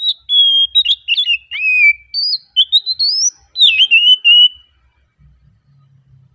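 Oriental magpie-robin (kacer) singing: a run of loud, clear whistled phrases that slide up and down in pitch, stopping about four and a half seconds in.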